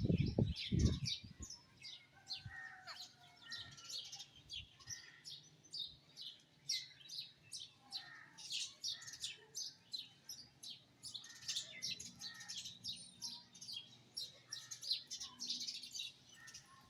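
Small songbirds chirping and twittering, a dense, continuous run of short high chirps from several birds at once. A few low thuds sound in the first second.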